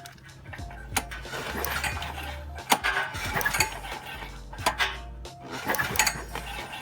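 Repeated sharp metallic clinks and clicks, like tools and metal parts being handled, over background music with a stepping bass line.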